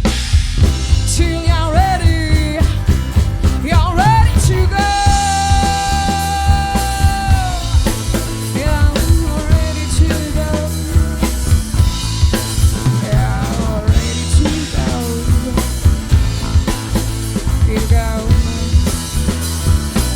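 A rock band playing, with a live drum kit (bass drum, snare and cymbals) driving a steady beat under bass. Over it a sliding lead melody holds one long note about five seconds in.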